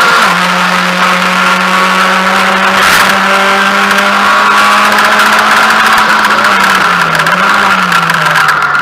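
Mazda MX-5 race car's four-cylinder engine running hard, heard loud from inside the cabin. Its pitch drops a fraction of a second in and then holds steady, with a brief thump about three seconds in, and near the end the revs waver and fall.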